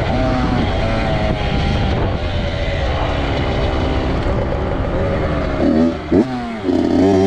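Dirt bike engine revving hard, its pitch rising and falling as the throttle is worked. About six seconds in it drops off sharply, then climbs again.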